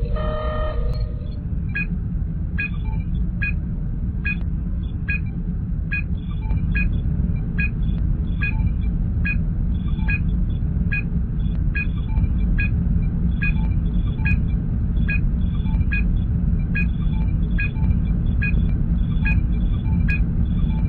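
Sci-fi starship ambience sound effect: a steady low engine rumble with a short electronic scanning blip repeating about once every 0.7 seconds, starting about a second in.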